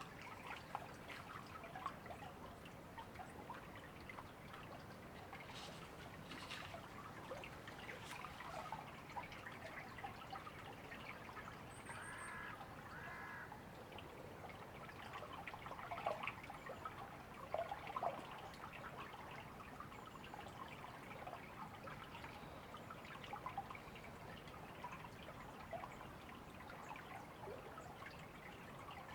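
River water trickling and babbling, a faint steady wash with small splashes. A bird gives two short calls about twelve seconds in.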